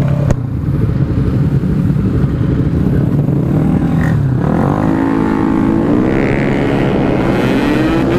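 Yamaha RX-King's single-cylinder two-stroke engine running through its exhaust, then from about halfway accelerating with its pitch rising.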